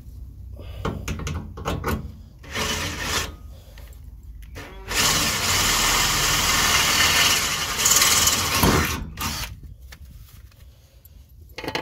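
Cordless drill boring through thin sheet metal in one continuous run of about three and a half seconds near the middle. It is drilling a rivet hole in the underbody panels that rattle on rough roads. Before it come a shorter burst and a few handling clicks.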